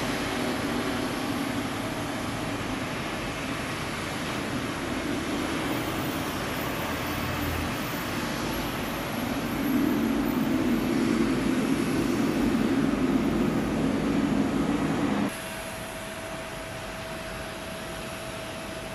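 Jet airliner engines running, a deep rumble that swells louder about ten seconds in, with a faint high whine. About fifteen seconds in it cuts abruptly to a quieter, steady engine noise with a single humming tone.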